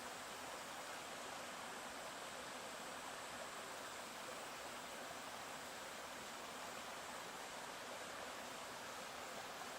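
Stream water rushing steadily over rocks, an even hiss with no changes.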